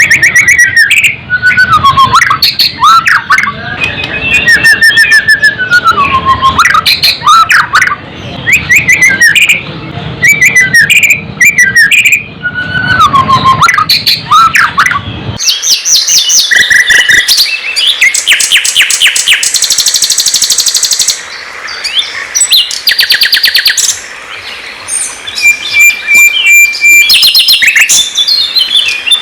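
Loud songbird song: clear whistled phrases that slide up and down, then, about halfway through, a sudden switch to fast, high trills and rattling notes. It is the song of a white-rumped shama (murai batu) and a sikatan londo flycatcher as kept by songbird hobbyists.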